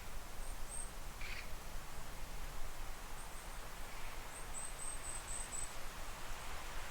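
Goldcrests calling: very high, thin short notes, a few single ones and then a quick run of about six a little after four seconds in, over a steady background hiss.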